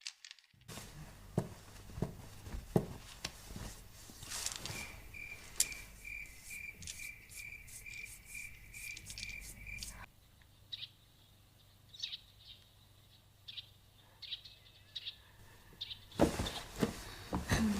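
Outdoor night ambience: an insect, likely a cricket, chirps in a steady rhythm of about two to three chirps a second over a low hum, with scattered clicks. It cuts off suddenly, leaving a quieter bed with short, scattered bird chirps, and louder rustling and knocks come in near the end.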